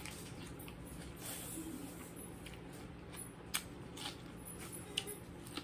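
Quiet eating sounds: a mouthful of stuffed bell pepper being bitten and chewed, with a few sharp mouth smacks in the second half, over a faint steady hum.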